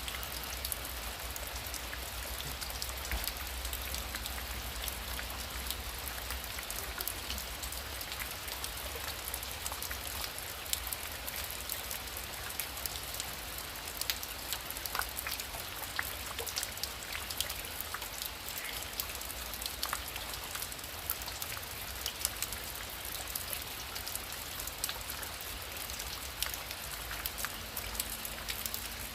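Heavy rain falling steadily, with many individual drops striking close by as sharp ticks over the hiss of the downpour. A low rumble sits underneath for the first several seconds.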